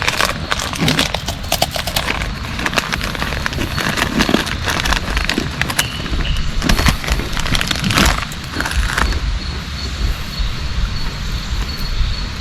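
Heavy rain falling, with many close, irregular ticks and knocks.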